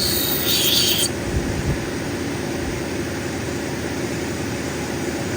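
Cabbing machine's diamond wheel running with a steady hum, with a high-pitched grinding squeal of an opal pressed against the wheel that stops about a second in.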